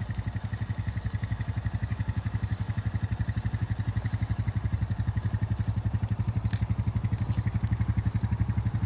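A vehicle's engine idling steadily with a fast, even pulse.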